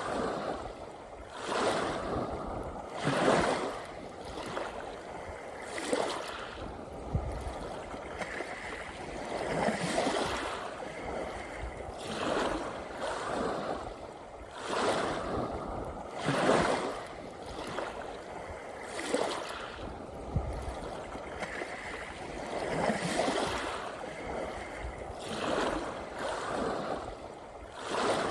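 Small sea waves breaking and washing up the shore, one surge every two to four seconds.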